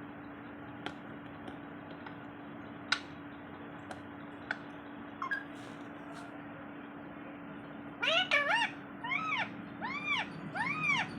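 Pet parrot giving a quick run of about seven rising-and-falling meow-like calls, mimicking a cat, starting about eight seconds in. Before them there is only a steady low hum and a few faint clicks.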